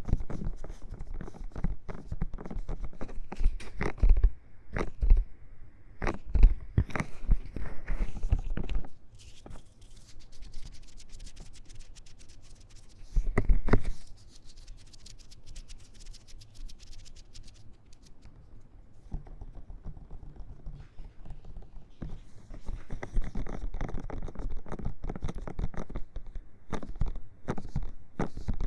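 Ear-cleaning tool scratching fast and hard inside the silicone ear of a 3Dio binaural microphone, close and grainy. Dense runs of strokes give way to a softer, finer scraping in the middle, then the rough strokes pick up again near the end.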